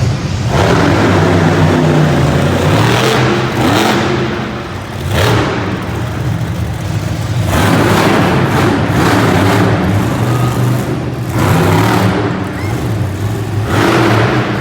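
Bigfoot monster truck's engine running under a steady low note, revved hard in about six throttle surges, some short and some lasting a couple of seconds.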